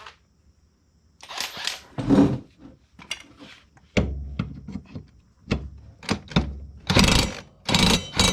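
Socket wrench working the blade bolt on a riding mower deck: repeated short metallic strokes, a few at first, then about two a second near the end as the bolt is tightened.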